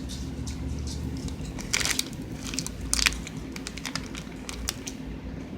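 Chewing a crisp, crunchy snack close to the microphone, with a few sharp crunches, the loudest about two and three seconds in.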